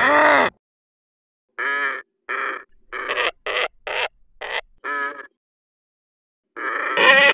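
A quick run of short animal calls, about nine of them, each under half a second and separated by silence, with a pause of about a second before the last one.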